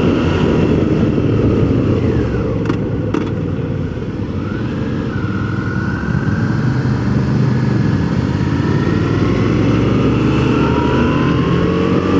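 Suzuki V-Strom 650 V-twin engine running on the move, with a steady rush of wind and road noise. The revs fall away with a couple of sharp clicks about three seconds in, pick up again a second or so later, and climb once more near the end.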